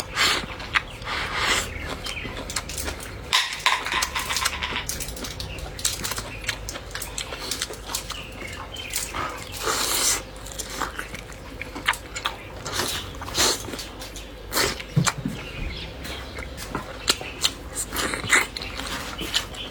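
Close-up eating sounds: irregular chewing, lip-smacking and sucking on braised pig's trotters, with short clicks scattered throughout.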